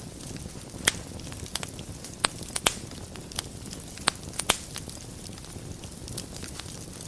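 Fire burning in a fireplace: a steady low rush of flame with irregular sharp crackles and pops, a handful of them louder snaps.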